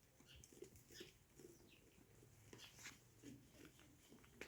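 Near silence with faint, scattered short chirps and light rustles from small domestic animals.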